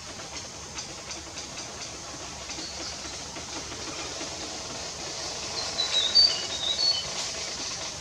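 Outdoor ambience: a steady high hiss with faint ticking, and a bird calling a few short, high chirps about six seconds in, the loudest sound.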